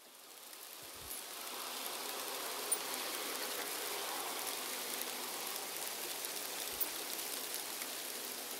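Light rain falling through a forest, fading in from silence over the first second or two and then steady, with a few sharper drop ticks.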